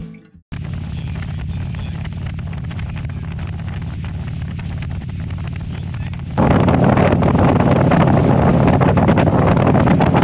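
Harley-Davidson Street Glide's V-twin engine running steadily, picked up by the helmet-mounted camera's microphone with some wind noise. About six seconds in, the sound abruptly becomes much louder and fuller, like a cut to another recording.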